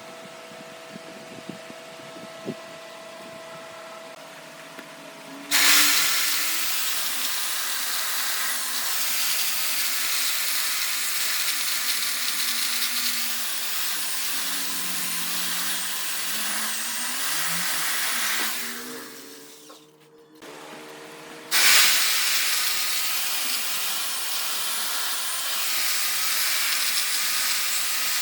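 A wood lathe hums with a few clicks, then a tool starts working the spinning wood about five seconds in, giving a loud, steady rushing noise. The noise fades out for a couple of seconds a little past halfway, leaving the lathe's hum, then starts again.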